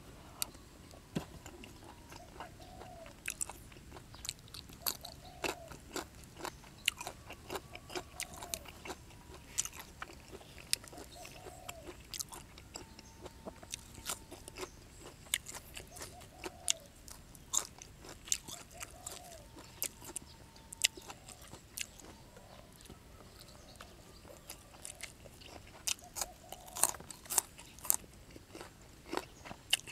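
Close-up chewing of raw beef and fresh vegetables: wet mouth clicks and crunching, several a second, busiest near the end.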